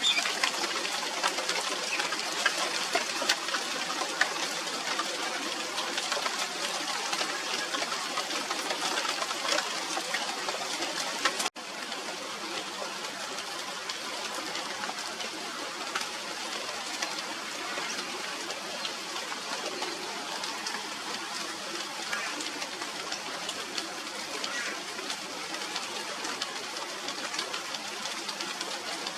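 Steady rain falling, a dense hiss of countless small drop impacts. It cuts out for an instant partway through, then goes on a little softer.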